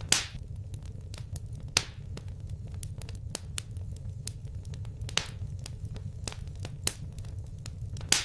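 Wood fire crackling: a steady low rumble of flames with frequent sharp snaps and about five louder pops.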